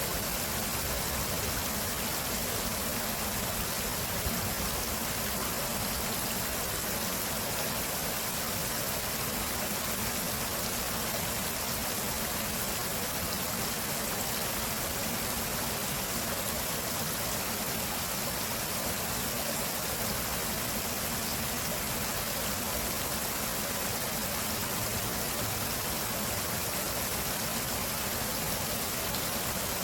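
Water flowing steadily in a stream, an even rushing sound without a break.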